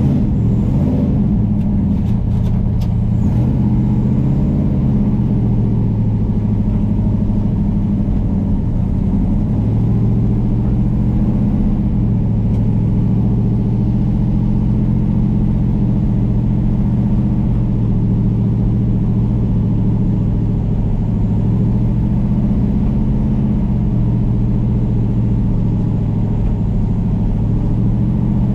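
V8 engine running steadily at low speed, a low, even drone whose pitch wanders slightly with no hard revving.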